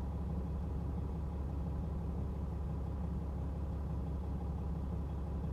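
Semi-truck's diesel engine idling steadily, a constant low rumble.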